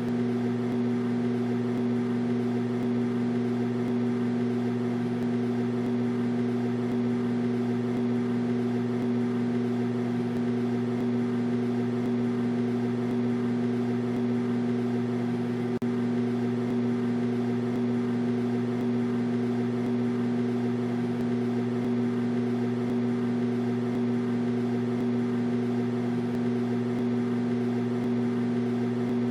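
Microwave oven running: a steady, even hum with no change in pitch or level, broken only by a momentary dip about sixteen seconds in.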